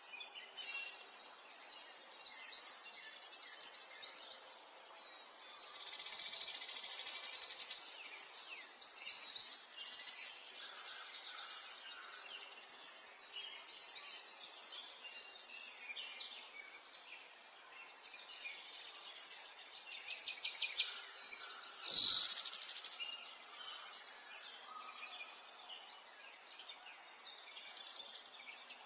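Songbirds singing and chirping in repeated high trills over a light background hiss. About three-quarters of the way through, one much louder, sharp chirp that drops in pitch comes together with a low knock.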